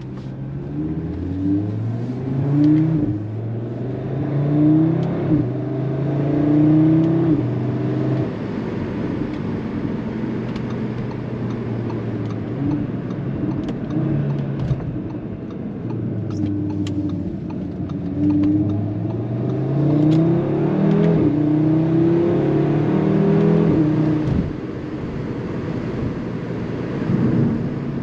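Stage 1 tuned Audi RS3 sedan's turbocharged five-cylinder engine, with its particulate filter and resonator removed, pulling hard through the gears: the engine note climbs and drops back at each upshift, three or four times in a row. It settles to a steady cruise, then pulls through the gears again about two-thirds of the way through.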